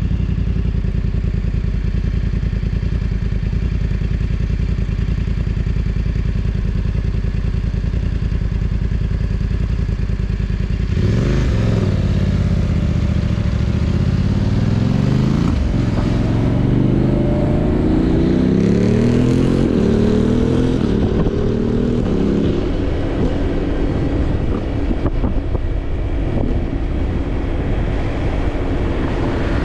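Motorcycle engine idling steadily, then about eleven seconds in pulling away: its pitch climbs through the gears, dropping briefly at each upshift, twice, before settling into a steady cruise.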